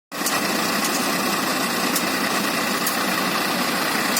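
Sonalika diesel tractor engine running steadily under load while driving a grain threshing machine, with a constant mechanical whir and a few faint clicks.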